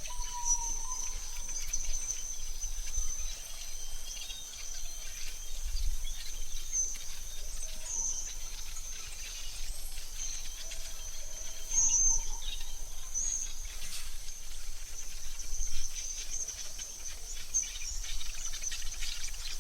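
AI-generated forest ambience: a steady high insect trill throughout, with a few short bird chirps scattered across it.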